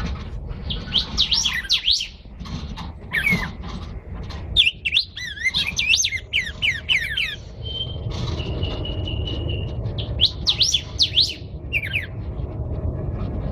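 Caged songbirds singing: three bursts of quick sweeping whistled notes, with a single steady whistle held for about two seconds between the second and third, over a low steady rumble.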